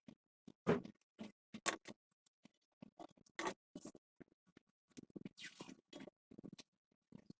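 Irregular clicks, taps and short scrapes of parts and tools being handled during repair work, with a longer rasping scrape about five seconds in.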